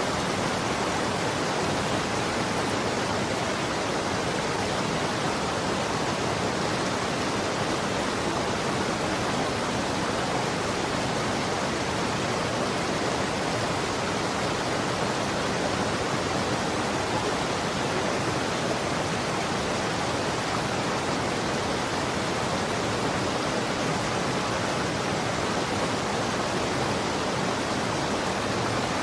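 Running water flowing steadily, an even, unbroken rush with no distinct splashes or drips.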